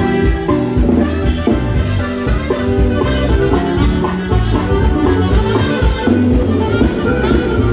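Norteño band playing an instrumental break between verses: a lead melody over bass and drums keeping a steady dance beat.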